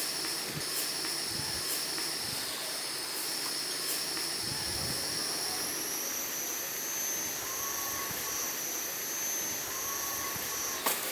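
A steady, high-pitched insect drone that steps slightly higher about six seconds in, over a constant hiss. A couple of sharp taps come near the end.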